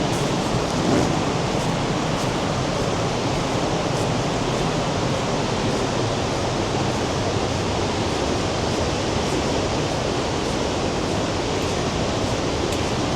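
The Rhine Falls' rushing water: a steady, dense roar that holds at one level throughout.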